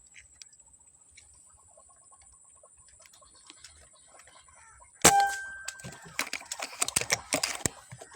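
A sudden loud metallic clang with a short ringing tone about five seconds in, followed by a run of quick clicks and rattles.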